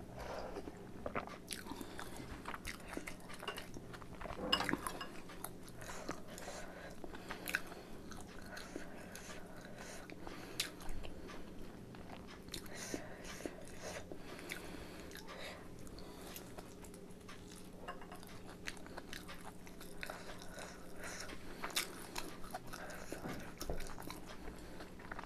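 A person chewing chicken momos (steamed dumplings) close to the microphone: soft, irregular small clicks and smacks of eating.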